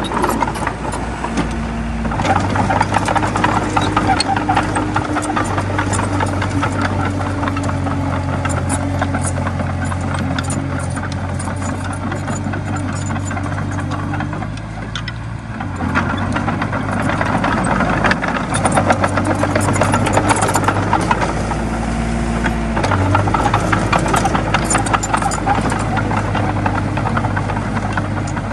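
Komatsu D20A bulldozer's diesel engine running steadily with a rattling clatter. The engine note sags briefly about halfway through, then comes back up.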